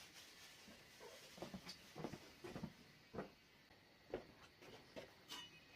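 Faint, scattered light knocks and clicks of things being handled, about a dozen, irregularly spaced, as food and utensils are set out for cooking.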